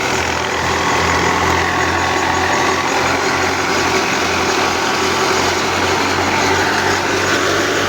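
Al-Ghazi tractor's diesel engine running at a steady speed, a constant low hum with a dense mechanical noise above it.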